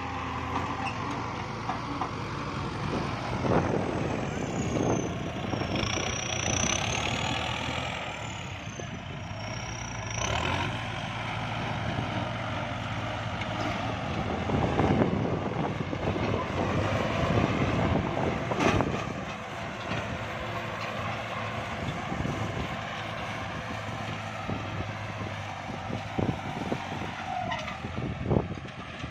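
Kubota diesel farm tractor engine running steadily under load, working soil, with the engine note swelling and easing a few times.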